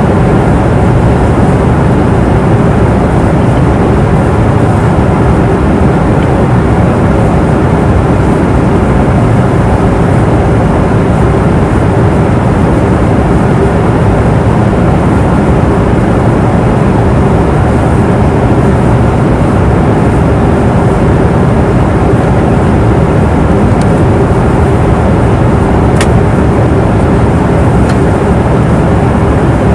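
Steady cabin noise of an airliner in flight: a constant low rush of engine and airflow with a faint steady hum. A brief click sounds near the end.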